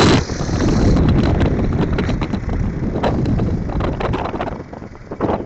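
Wind buffeting the microphone over the rumble of a moving motorcycle, with scattered knocks and clicks. It eases off about four and a half seconds in.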